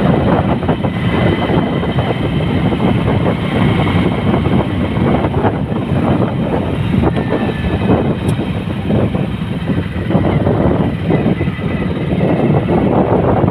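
Loud, steady rumbling noise of a moving vehicle, with a faint high whine above it.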